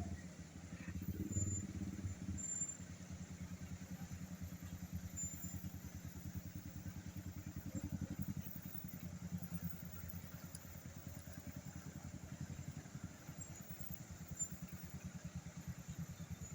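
Engine of a truck fully loaded with sand, running with a low, even pulse as it pulls up a steep climb.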